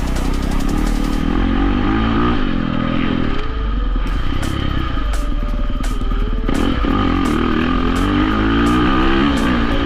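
Dirt bike engine revving hard as the bike rides, its pitch climbing and dropping several times as the rider accelerates and shifts or backs off.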